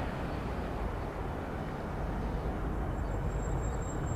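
Steady rumble of airliner jet engines, with a faint high whine coming in about three seconds in.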